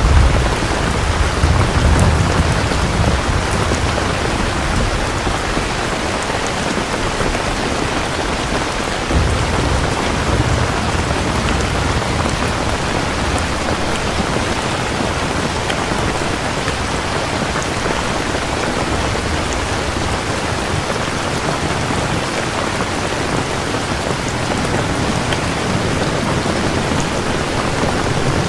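Steady heavy rain with low, rolling rumbles of distant thunder, strongest in the first couple of seconds and again about nine seconds in.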